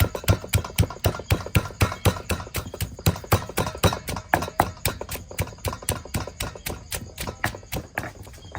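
Rapid, regular knocking strikes, about five a second, keeping an even pace throughout.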